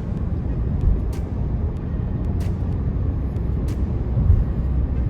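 Steady low road rumble and engine hum from a car driving along, heard from inside the cabin, with a few faint clicks.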